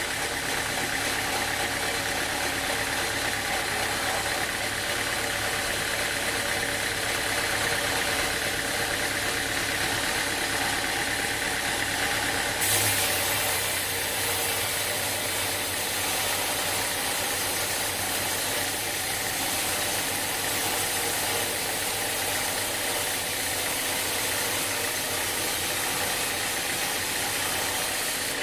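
Sawmill machinery running steadily with an engine-like drone. About halfway through the sound changes suddenly to a brighter, hissier tone with less low hum.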